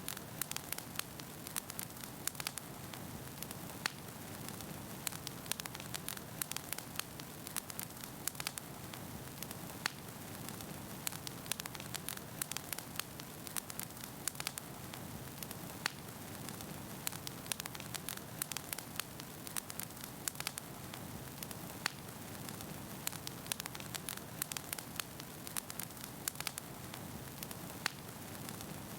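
Wood fire burning in a fireplace: a steady hiss of flames with frequent, irregular sharp crackles and pops of firewood.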